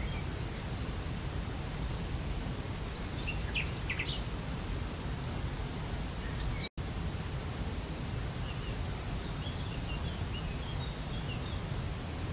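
Waterfall water rushing steadily, with small birds chirping in short calls in the first few seconds and again later on. The sound cuts out for an instant about two-thirds of the way through.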